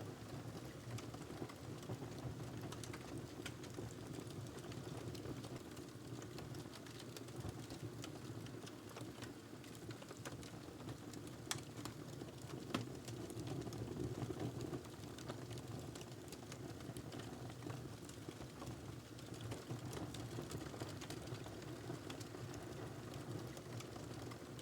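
Fireplace fire burning steadily: a low rumble of flames with scattered small crackles and pops, and a couple of sharper pops about halfway through.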